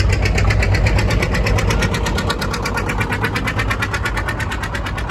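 Tractor-pull engine running loud with a rapid, even pulsing, getting slightly quieter toward the end.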